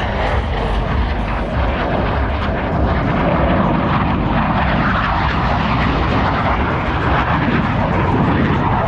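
Jet noise from Blue Angels F/A-18 Super Hornets flying the display, a loud steady rumble that builds slightly about three seconds in.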